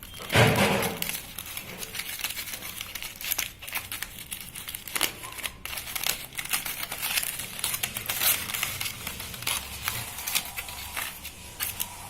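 Food delivery packaging crinkling and crackling as it is handled and opened to get at the luchi, with a louder rustle about half a second in.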